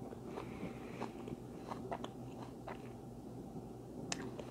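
Faint chewing close to the microphone: scattered small mouth clicks, with a sharper click about four seconds in.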